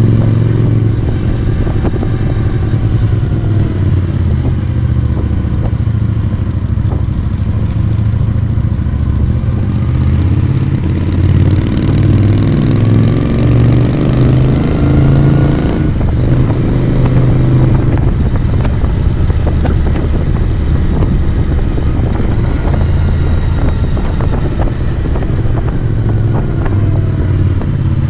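Moto Guzzi V35's air-cooled transverse V-twin engine and exhaust running under way, heard from the rider's seat. About a third of the way in the engine note climbs steadily for several seconds, then drops suddenly and carries on at a lower pitch.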